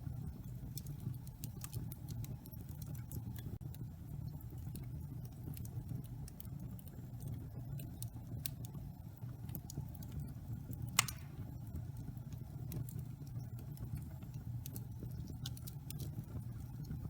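Wood fire crackling in a fireplace: a steady low rumble of the flames with scattered small snaps, and one louder pop about eleven seconds in.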